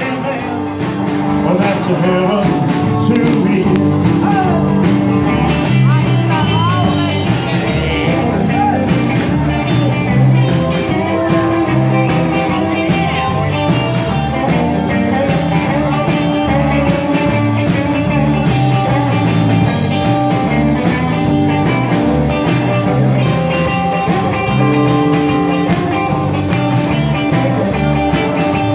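Live rock and roll band playing, electric guitar over bass and drums with a steady beat.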